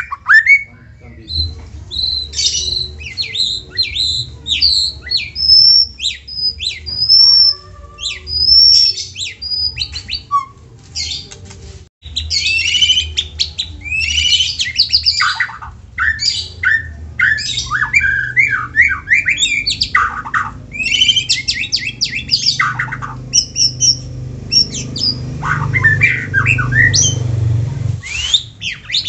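White-rumped shama (murai batu) singing a fast, varied song of clear whistles, pitch glides and rapid harsh chattering notes, broken briefly about twelve seconds in. A low hum runs underneath.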